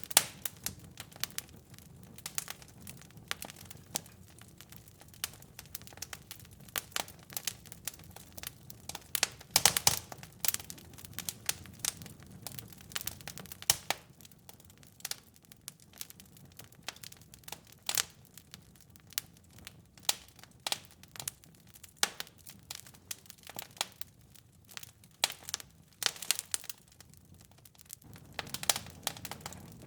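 Wood fire in a fireplace crackling, with many irregular sharp pops and snaps over a soft low rumble of burning; the rumble drops away for a while in the middle.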